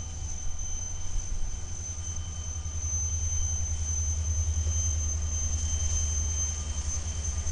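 EMD diesel locomotives of a freight local running by with a steady, pulsing low rumble, with a steady high-pitched whine over it.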